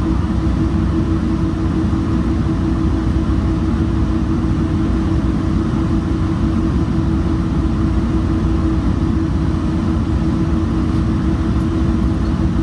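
Metrolink commuter train running steadily, heard from aboard: an even low rumble with a constant hum over it.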